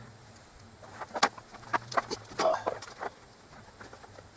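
Scattered light clicks and knocks of bolts and hand tools being handled, with a brief squeak-like pitched sound about two and a half seconds in.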